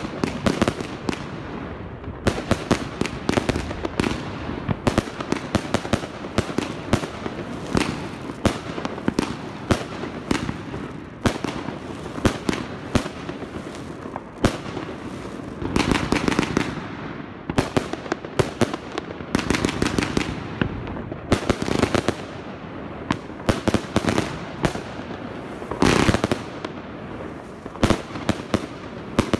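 Evolution Fireworks 'Mayhem' firework cake firing: a rapid, unbroken string of shots and aerial bursts with crackling stars. Heavier salvos come about halfway and near the end.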